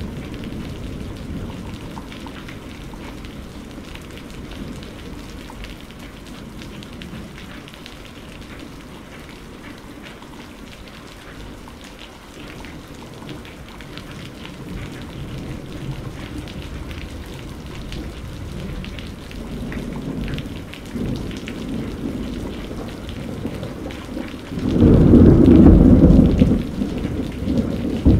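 Steady rain falling with low rolling thunder. Near the end a loud clap of thunder rumbles for about two seconds, followed by another roll.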